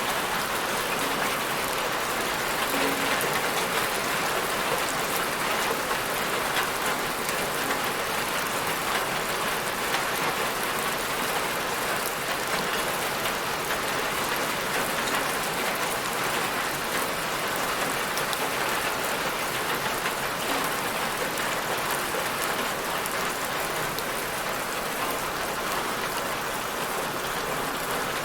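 Steady rain falling: an even, unbroken wash of many small drops.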